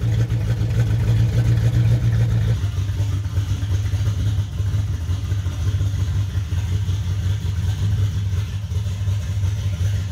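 Turbocharged Holden 5-litre V8 idling steadily, with a slight change in its sound about two and a half seconds in. It is blowing heavy crankcase pressure out of the oil cap, breathers and dipstick tube, which the owner takes for a blown head gasket or a cracked piston ring.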